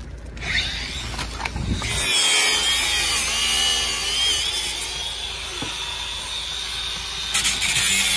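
Angle grinder cutting on a car being scrapped: it spins up about half a second in, then from about two seconds bites in with a loud, steady hiss and a wavering high whine.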